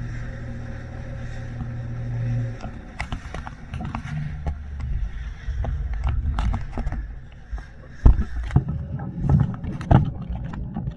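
Boat motor running steadily, cutting out about two and a half seconds in, followed by scattered knocks and two sharp thumps.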